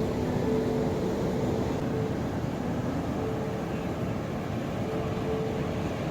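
Ocean surf rushing steadily, a low continuous wash of waves, with a faint held musical tone coming and going beneath it.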